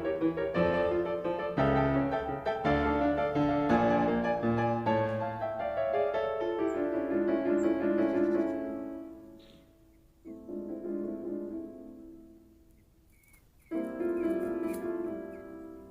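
Background piano music, a gentle passage of struck notes and chords that thins to near quiet twice before resuming.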